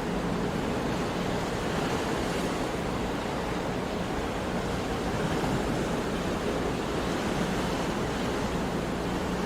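Sea surf: waves washing as one continuous, steady rush of noise, with no single wave breaking out above the rest.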